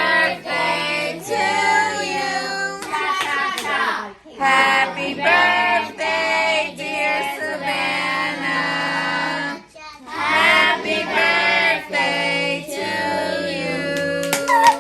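Voices singing a song together, a child's voice prominent, in long held phrases with short breaks between them.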